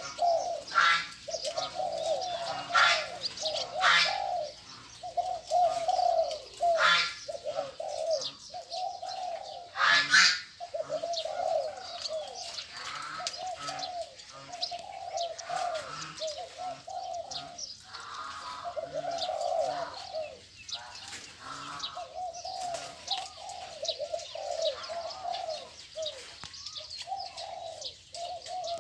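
Spotted doves cooing, one phrase after another with calls overlapping, while short high chirps sound over them.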